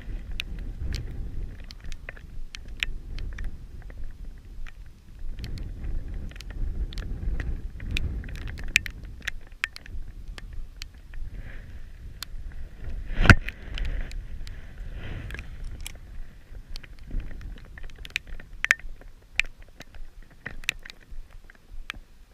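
Heavy rain, with raindrops striking close to the camera as many sharp, irregular ticks over a low rumble. One louder knock about 13 seconds in.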